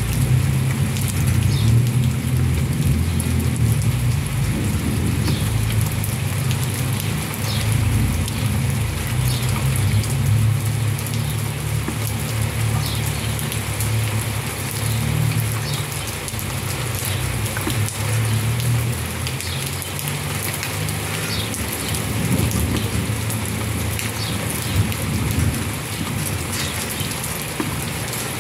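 Steady rain falling on wet foliage, a continuous hiss with a low, wavering rumble underneath.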